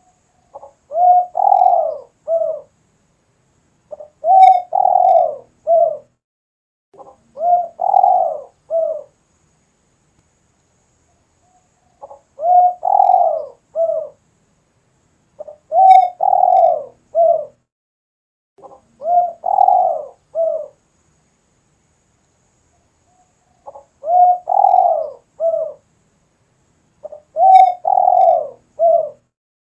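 Spotted dove (tekukur) cooing, giving its repeated three-note phrase of a short coo, a longer rolling coo and a short closing coo. The phrase comes eight times, with pauses of a second or two between phrases.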